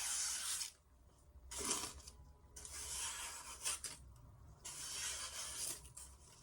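Sharpened kitchen knife slicing through paper towel, with several rough, hissing cutting strokes of about a second each and short pauses between them.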